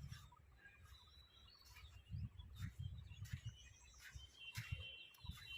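Birds chirping, with short calls and a few held whistled notes, the clearest near the end. Faint low thumps sound under them.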